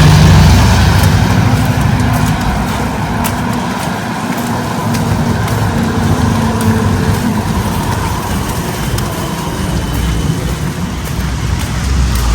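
Street traffic: a motor vehicle's engine running close by, loudest at the start and fading over the next few seconds, over a steady background of city traffic noise.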